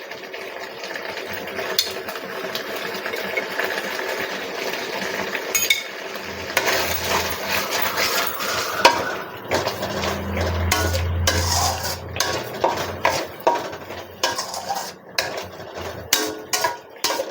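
Metal spoon stirring and scraping thick masala gravy in a cooking pan, with repeated clicks of the spoon against the pan that come thicker in the second half.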